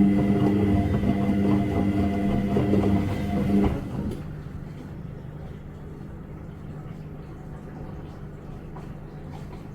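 Washing machine motor humming steadily at one pitch as it drives the drum. A little under four seconds in, the hum drops to a quieter, low steady hum.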